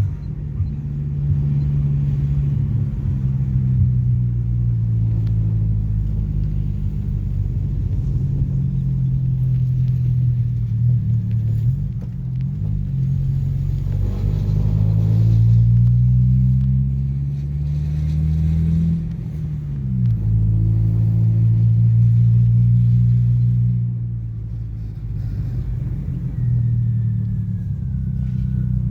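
Chevrolet Montana pickup driving, its engine a deep rumble whose pitch climbs and falls again several times, dropping sharply about two-thirds of the way through as it changes gear.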